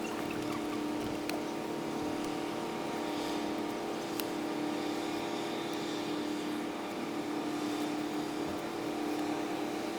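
Steady engine hum made of several fixed tones over a noisy haze, with a couple of faint clicks.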